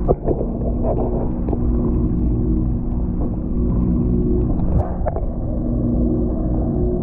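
Steady low motor hum with a low rumble under it, and a few brief knocks: a thump right at the start and a sharp click a little before five seconds in.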